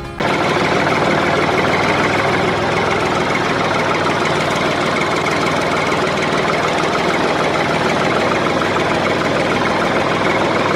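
A motor running steadily with a fast, even knocking beat. It starts abruptly just after the music stops.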